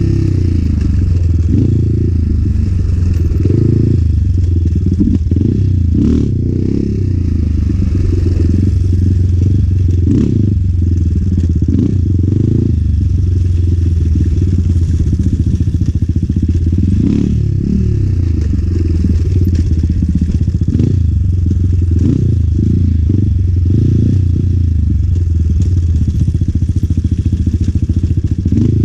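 Enduro motorcycle engine revving up and down again and again as the bike is ridden hard, its sound muffled and heavy in the low end, with a few knocks and clatter over the rough ground.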